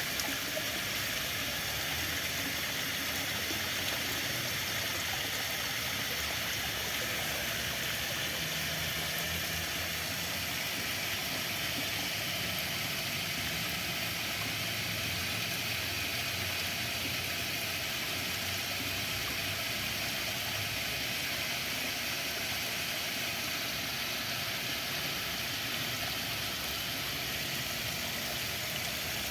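Flowing water, a steady even rush with no breaks, and a faint low hum in the middle.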